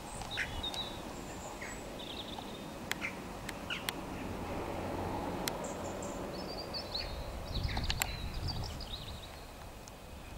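Birds chirping in short, scattered calls over a low background rumble that swells briefly about eight seconds in, with a few sharp clicks.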